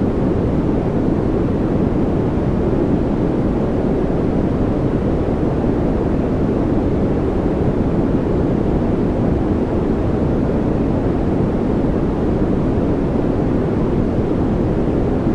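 Steady, deep rushing noise track played for focus or relaxation, unchanging throughout, heavier in the low end than in the highs.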